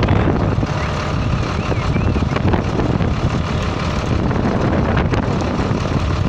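Wind blowing hard across the microphone, a steady loud rushing noise.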